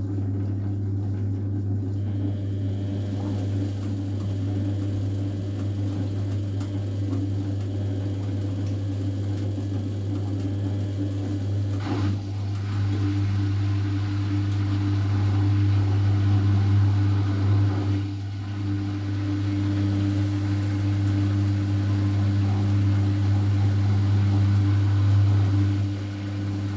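A household appliance running with a steady, low electrical hum. There is a short click about halfway through, after which a second, higher tone joins the hum and drops out briefly now and then.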